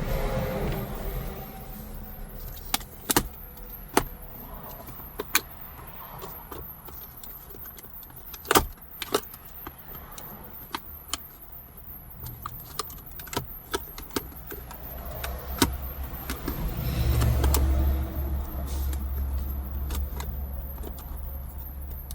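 Scattered clicks, knocks and small metallic clinks of hands working on car dashboard trim: screws coming out and a woodgrain console panel being worked loose. The sharpest knock comes about eight and a half seconds in, and denser handling and rumbling noise follows near the end.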